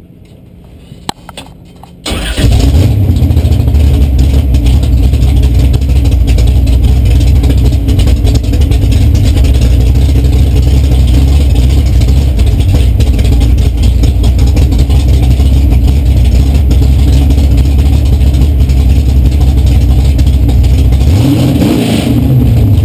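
Drag-race car engine being started: a few clicks, then about two seconds in it fires and settles into a loud, steady idle. Near the end the pitch briefly rises and falls in a short rev.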